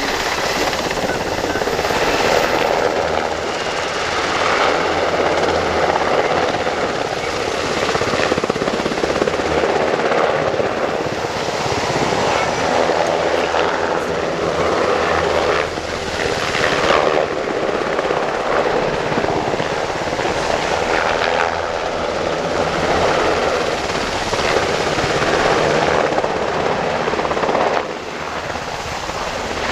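Sikorsky UH-60 Black Hawk helicopter in flight: loud, steady rotor and twin turboshaft engine noise that swells and eases as it manoeuvres, dropping off a little near the end.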